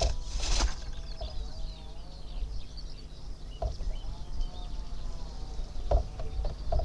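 Small birds chirping and singing, over a steady low rumble, with a burst of noise near the start and a few short knocks.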